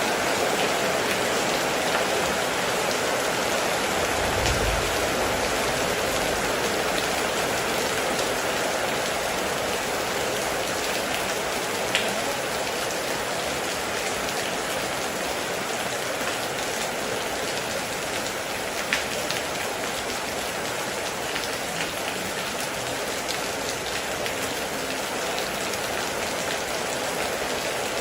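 Heavy rain falling steadily, with a brief low rumble about four seconds in and a few sharper drop ticks standing out.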